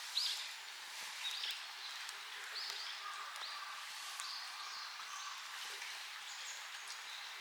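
Small birds calling in a winter forest: short high call notes repeated about once a second, the loudest just after the start, over a faint steady hiss.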